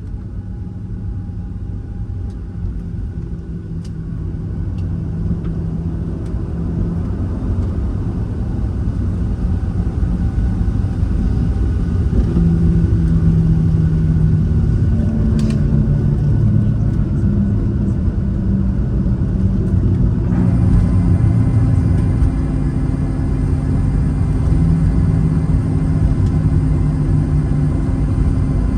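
Boeing 737 heard from inside the cabin: a steady low rumble of the engines and airframe that grows louder over the first dozen seconds. A steady whine joins it about twenty seconds in.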